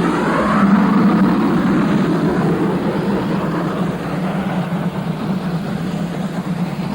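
LMS Jubilee class three-cylinder 4-6-0 steam locomotive pulling away with a passenger train: a steady, loud mechanical rumble and hiss that eases slightly after about four seconds.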